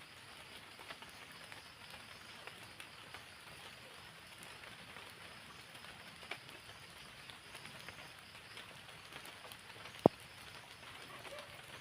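Rain falling steadily, a soft patter full of small drip ticks. One sharp click or knock stands out about ten seconds in.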